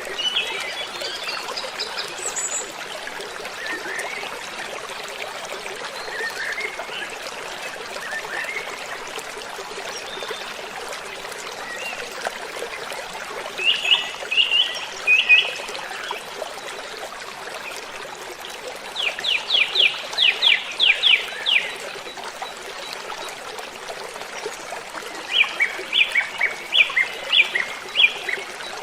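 Steady rush of a waterfall, with birds calling over it: short chirps early on, then three bursts of quick repeated notes, the longest a run of about a dozen notes lasting some three seconds past the middle.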